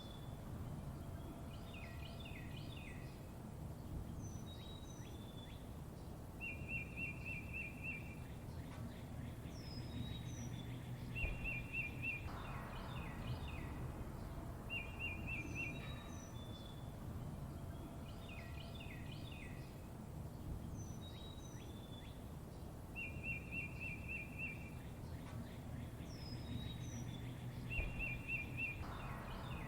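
Songbirds chirping: a short, rapid trill repeats every several seconds, mixed with other high chirps and sliding whistles, over a steady low rumble of background noise.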